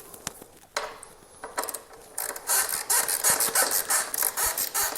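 Hand ratchet wrench clicking as a fairing bolt on the motorcycle is worked loose: a few scattered clicks at first, then fast, steady clicking from about two seconds in.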